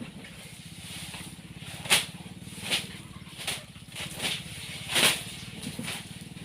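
Elephant rubbing its body back and forth against a scratching brush, a short scraping stroke about every three-quarters of a second, over a steady low hum.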